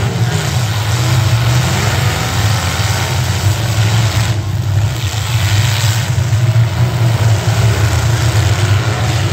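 Engines of several demolition derby cars running and revving together as they push and ram one another, a loud, steady low drone.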